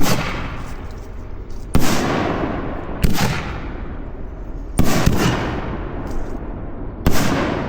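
Excalibur aerial firework shells going off: five loud bangs, irregularly spaced over several seconds, each trailing off in a fading rumble.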